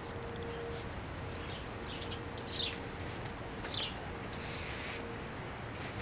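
Small birds chirping: a handful of short, high chirps, some sliding down in pitch, scattered through, the loudest about two and a half seconds in.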